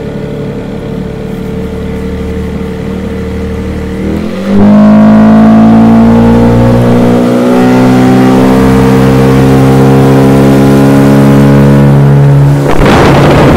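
Boat's outboard motor running steadily, then opened up about four and a half seconds in: it gets louder and its pitch climbs slowly as the boat picks up speed. Near the end a loud rush of wind and water noise joins in.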